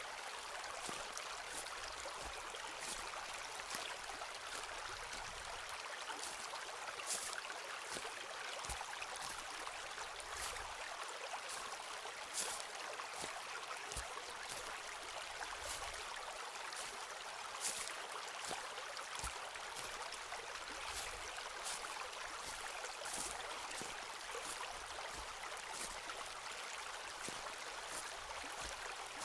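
Footsteps of someone walking on a forest path, a soft crunch with a low thud every second or two, over a steady rushing background.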